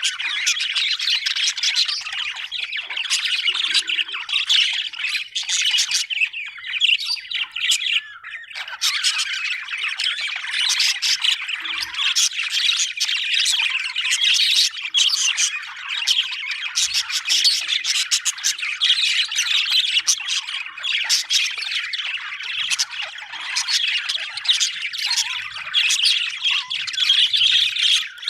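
Budgerigars chattering, with rapid overlapping chirps and squawks that barely pause, apart from a short lull about eight seconds in.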